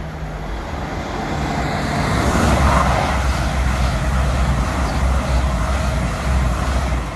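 Diesel express passenger train passing close beneath a bridge: a steady low engine drone under wheel and rail noise that swells about two seconds in as the train runs underneath, then cuts off suddenly at the end.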